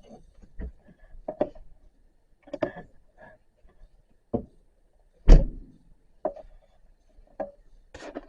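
A series of irregular knocks and clunks, the loudest a heavy thump about five seconds in.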